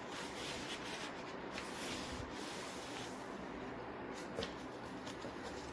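Paper sheet being handled and folded: a few faint rustles and creases over a steady background hiss.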